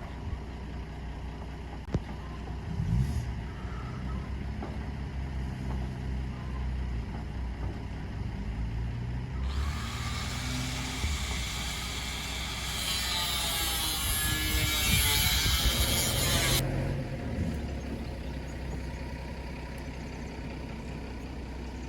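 A motor vehicle's engine running with a steady low rumble, its pitch shifting up and down. A loud hiss comes in suddenly about ten seconds in and cuts off about seven seconds later.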